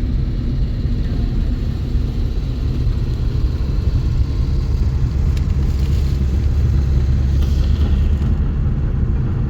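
Steady low rumble of a running motor vehicle, a little louder from about four seconds in.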